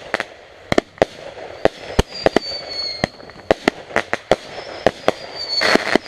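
Fireworks going off: a dozen or more sharp bangs at uneven intervals over a crackling hiss, with high whistles that fall slightly in pitch.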